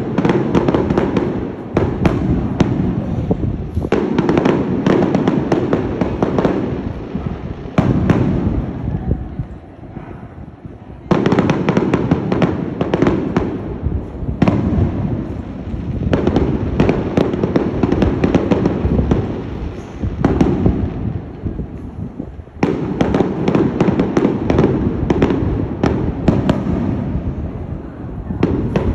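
Aerial fireworks display: rapid volleys of sharp bangs and crackling shell bursts, easing into a lull about eight seconds in and starting again abruptly at about eleven seconds.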